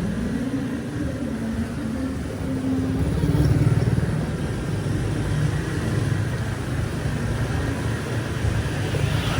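City street traffic: motorbike and car engines passing close by, one rising in pitch as it speeds up just after the start, the traffic loudest about three to four seconds in.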